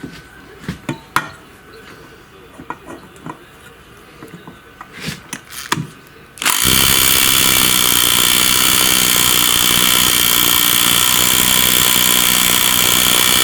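Scattered clicks and knocks of metal parts being handled. About six and a half seconds in, a handheld electric power tool starts suddenly and runs steadily and loudly, used on rivets in the walk-behind tractor's gearbox.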